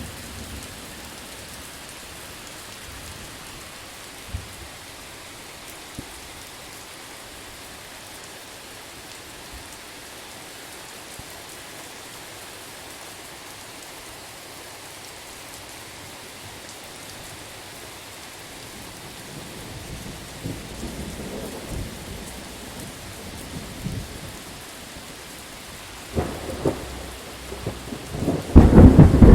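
Steady rain falling, with a few drops ticking sharply early on. Thunder begins to rumble low about two-thirds of the way in, cracks sharply a few seconds before the end, then breaks into a loud thunderclap at the very end.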